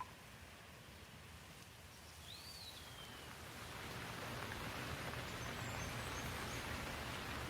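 Rain falling, a soft even hiss that swells in over the first few seconds and then holds steady. A bird gives a single short chirp about two seconds in, with fainter high chirps later.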